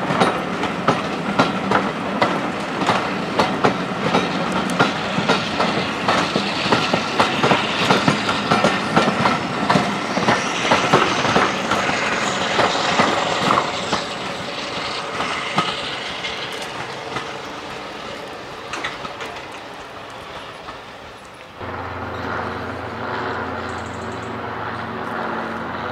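Passenger coaches rolling past, their wheels clicking rapidly over the rail joints with a thin rising squeal, the clatter slowly fading as the train goes by. Near the end the sound changes suddenly to the steady drone of an approaching diesel locomotive's engine.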